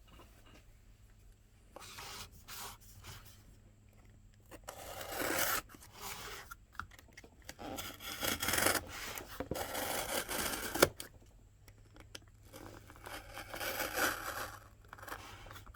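Shipping packaging being handled and opened by hand: irregular bursts of rubbing, scraping and tearing, busiest in the middle, with one sharp click about eleven seconds in.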